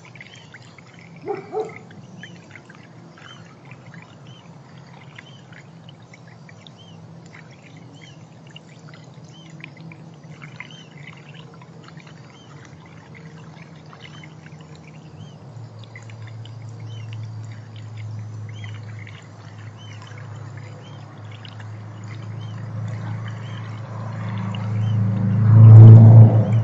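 Small birds chirping lightly and often over a steady low hum. The hum grows from about halfway through and swells loud near the end, with two short louder sounds about a second and a half in.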